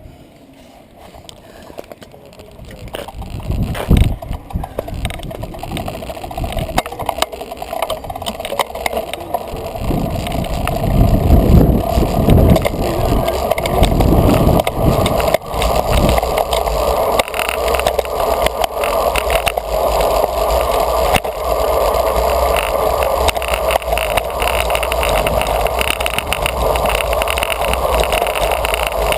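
Wind rushing over the microphone of a bike-mounted GoPro, mixed with road-bike tyres on pavement, growing louder over the first ten seconds or so as speed builds on a downhill, then holding steady. Short knocks and rattles from road bumps run through it.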